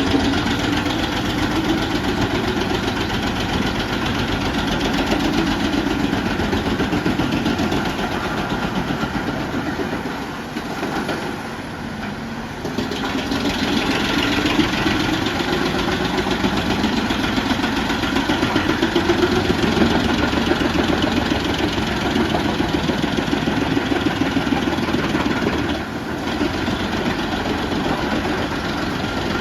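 Truck-mounted drum wood chipper running hard: a heavy engine under load together with the constant noise of the spinning drum shredding fed logs and branches, dipping briefly about a third of the way through.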